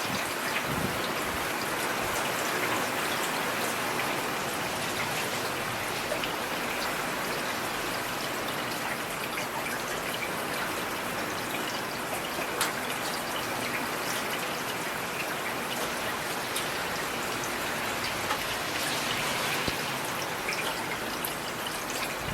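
Steady rain falling, an even hiss of drops with scattered single drop ticks on a surface.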